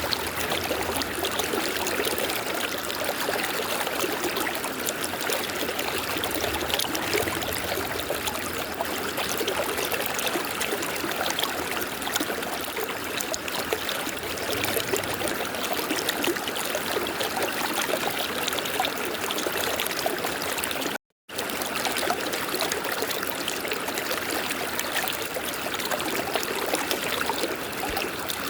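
River water flowing steadily, a continuous rushing with trickling detail. The sound cuts out completely for a split second about three quarters of the way through.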